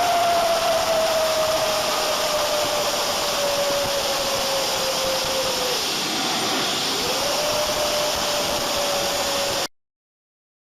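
Jet engine running on the ground: a loud, steady rushing noise with a whine that slowly falls in pitch. The whine drops away about six seconds in and returns a second later. The sound cuts off suddenly near the end.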